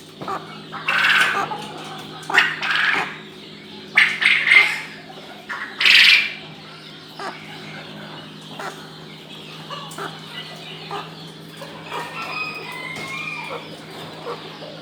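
Chickens clucking and squawking: four loud calls in the first six seconds, then softer scattered chirps over a steady low hum.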